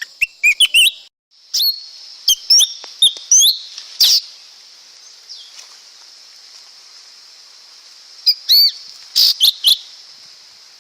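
Lesser green leafbird calling: short, sharp, sweeping chirps in quick clusters, over a steady high hiss that drops out briefly about a second in.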